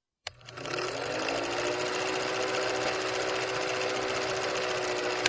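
A small electric motor switched on with a click, its hum rising in pitch over the first second and then running steadily with a fast fine rattle, before a click near the end as it winds down.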